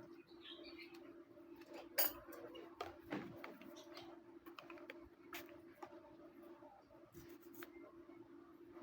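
Faint scattered clicks and snips of pedicure tools such as nail nippers and scrapers working on the feet, over a steady low hum, with one sharper click about two seconds in.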